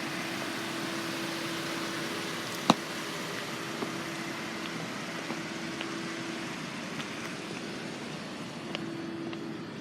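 Steady airy background noise with a faint steady hum, broken by one sharp click about three seconds in and a few light ticks.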